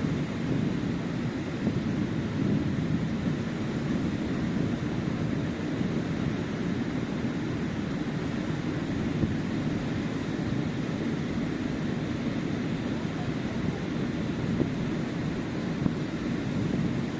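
Surf washing steadily onto a sandy beach, heard as an even low rush, with wind rumbling on the microphone.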